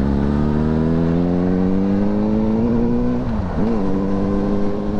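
Suzuki GSR 600's inline-four engine with an Akrapovic exhaust, pulling steadily up through the revs. About three seconds in the revs dip sharply and pick up again at a lower pitch as it shifts up a gear, then hold steady.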